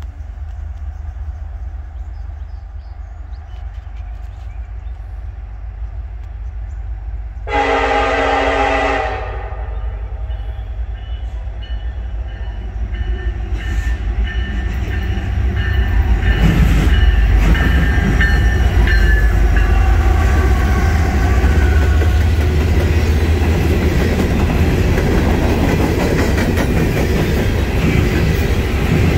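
Norfolk Southern diesel locomotive #1113 approaching at the head of a coal train, its engine a low rumble. It gives one short horn blast about eight seconds in. From about halfway through the engine and wheel noise swell as the train passes, with wheels clattering over the rails.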